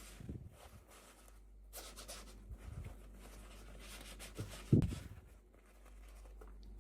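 Hands handling packaging and small toys: scattered rustling and scraping, with one sharp knock just under five seconds in.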